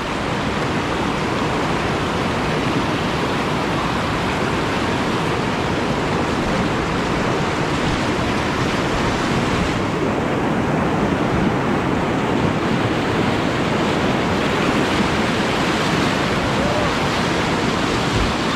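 Steady rush of whitewater pouring through a river rapid, an even, unbroken roar of water with no let-up.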